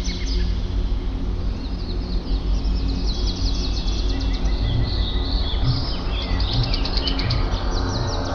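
Several small songbirds chirping and trilling in quick runs of high notes, overlapping one another, over a steady low hum.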